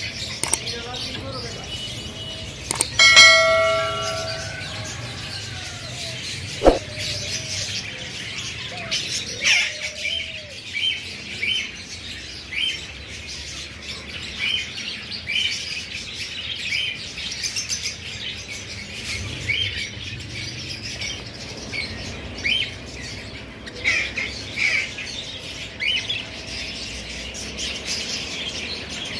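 Caged birds chirping over and over, short high chirps every second or so. About three seconds in a loud ringing tone sounds for about a second, and a sharp click comes a few seconds later.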